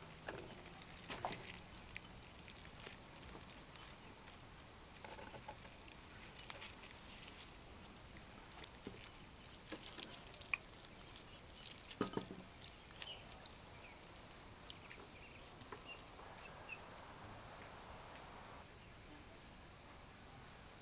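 Quiet outdoor ambience: a steady high-pitched hiss with scattered light clicks and knocks, the sharpest about a second in and about twelve seconds in.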